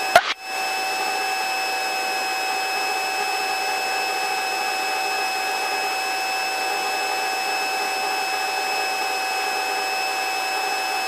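Helicopter cabin noise in steady forward flight, heard through the headset intercom: an even rushing hiss with a few steady whining tones, unchanging throughout. A brief click comes just after the start.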